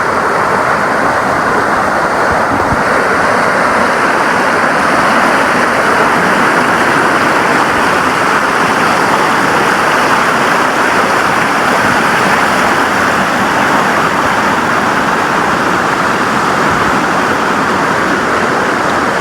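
Rushing creek water pouring over rocks, a loud, steady rush.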